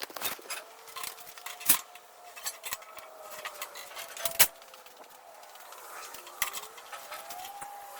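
Scattered metallic clinks and knocks, like tools and metal parts being handled, with a louder knock just under 2 seconds in and another about 4.5 seconds in, over a faint wavering tone.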